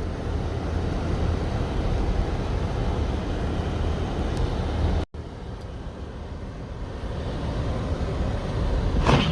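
Steady low rumble of a car driving slowly on snowy roads, heard from inside the cabin. The sound drops out for an instant about five seconds in, then the rumble goes on a little quieter.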